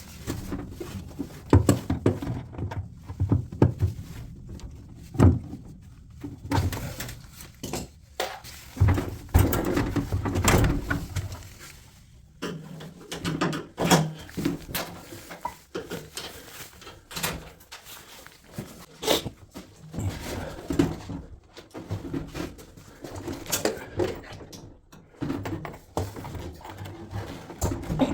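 Irregular knocks, clicks and clatter of washing-machine panels and parts being handled during disassembly, with some heavier thuds now and then.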